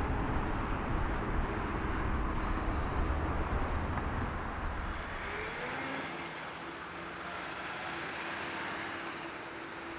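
Jet engine rumble of a landing Boeing 777 on final approach, fading away about five seconds in as the aircraft passes. A steady high-pitched insect buzz runs underneath throughout.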